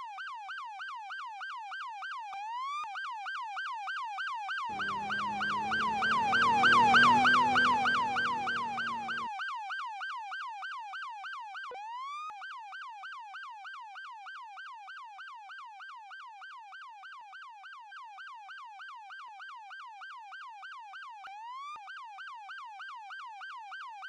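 Emergency vehicle siren in a fast yelp, sweeping up over and over, briefly breaking into a slower rise about three times. It grows louder as the vehicle approaches and passes, with engine and road rumble peaking about seven seconds in, then fades as it moves away.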